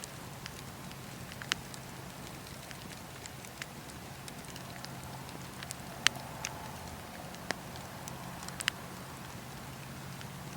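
Campfire burning with irregular sharp crackles and pops over a steady low rumble; the loudest pop comes about six seconds in.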